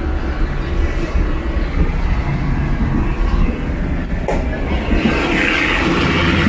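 Passenger train carriage running on the rails: a loud, steady rumble and rattle, heard at the end of the carriage by the doors to the next car. There is a single knock a little past four seconds in, and from about five seconds in a rushing noise grows louder.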